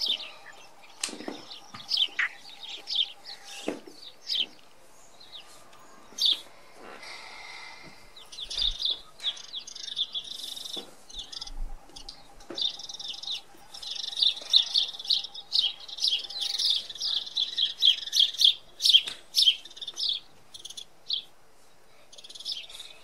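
Small birds chirping and twittering in quick runs of short notes, busiest in the second half, with a few soft knocks in between.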